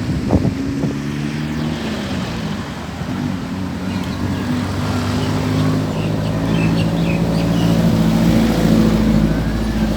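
An engine running close by, a steady low hum that grows louder over the second half.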